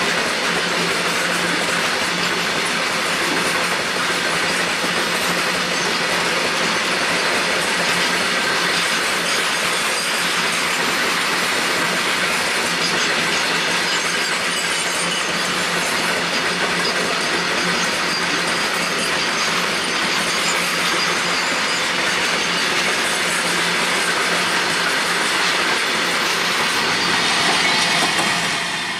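Long freight train of open wagons loaded with coal rolling past close by: a steady clatter of wagon wheels on the rails, swelling slightly near the end as the last vehicle comes by.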